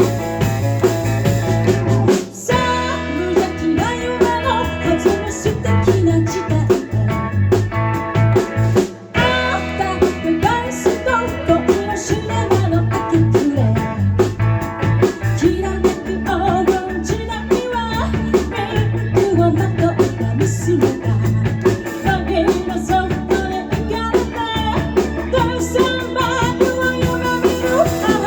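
Live rock band playing, with electric guitar, bass and drum kit; the band stops together for an instant about two seconds in and again about nine seconds in.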